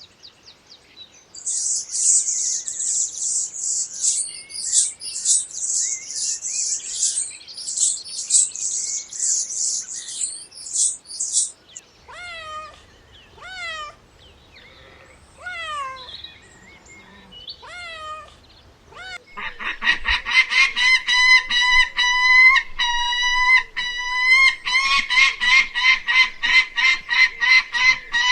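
Bird calls in three parts: a dense high chirping for about ten seconds, then half a dozen separate calls that each fall in pitch, then a fast run of repeated calls, a few a second, for the last eight seconds or so.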